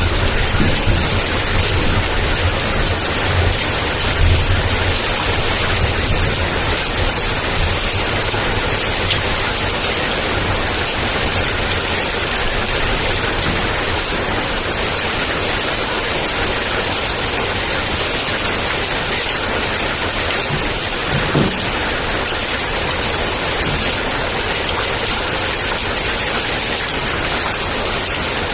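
Heavy downpour of rain, a steady dense hiss, with low thunder rumbling during the first few seconds.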